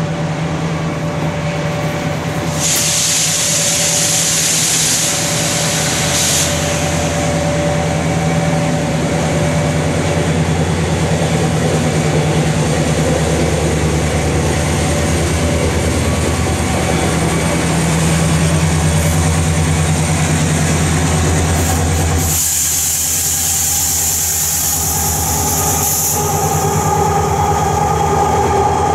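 Diesel locomotives of a passing freight-equipment train running under power, a steady low drone, giving way about three quarters of the way through to the rolling rumble and wheel noise of the cars going by. Two spells of high-pitched hiss come over the top, one early and one as the drone drops away.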